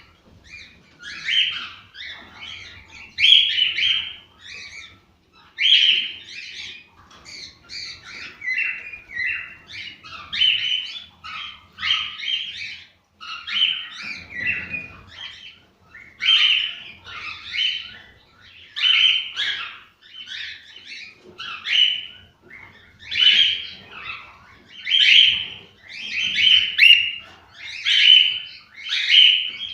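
Cockatiels singing: a steady run of short chirping, warbling phrases, one after another about every second.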